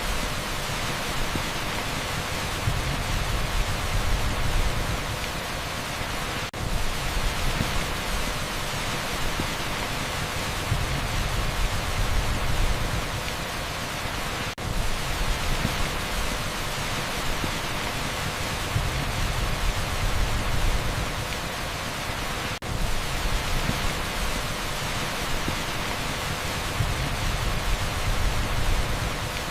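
Torrential rain on a street, heard as a dense, steady pink-noise hiss with a low rumble that swells and fades. Brief dropouts break it about every eight seconds, as the loop restarts.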